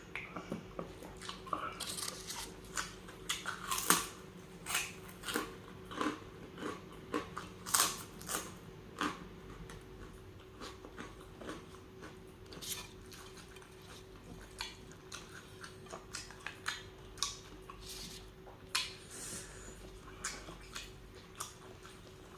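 Close-miked eating of tuna and milkfish sisig: chewing with wet lip smacks and sharp mouth clicks, about one or two a second, thickest in the first ten seconds and sparser after. A faint steady hum runs underneath.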